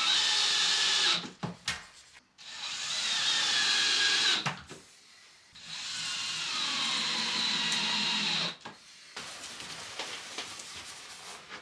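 Power drill running in three bursts of a few seconds each, its motor pitch falling slightly as it works, typical of driving screws or boring holes while fitting wardrobe hardware. A quieter stretch of handling noise follows near the end.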